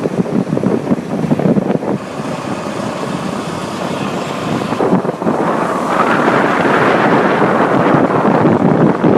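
High-water truck driving through floodwater: a steady rush of water and engine noise, with wind buffeting the microphone. The rush swells louder about five seconds in.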